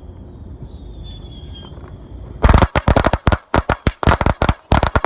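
Consumer fireworks going off in a rapid string of sharp cracks, about five a second, starting about halfway through.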